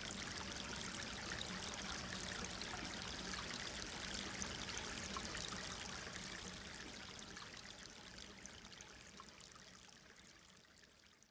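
Gentle stream flowing and trickling steadily, a continuous watery hiss that fades out gradually over the last few seconds.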